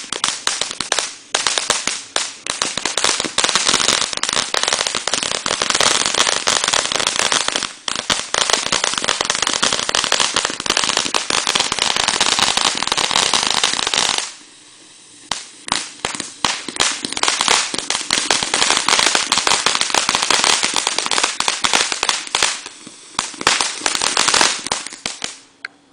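Ground sparkler-fountain firework spraying sparks with dense, rapid crackling. It drops out for about a second a little past the halfway point, starts again, and stops shortly before the end.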